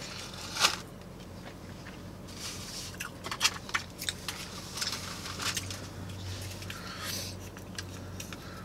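Chewing and crunching fast food with scattered small clicks and paper rustling. Near the end a plastic dipping-sauce cup is handled and its lid pulled open.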